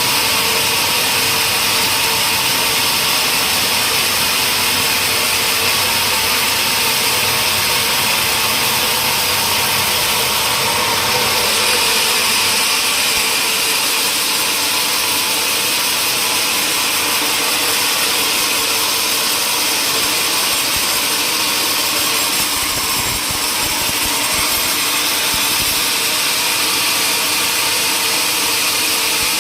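Sawmill machinery running steadily: an even mechanical noise with a constant hum that doesn't change.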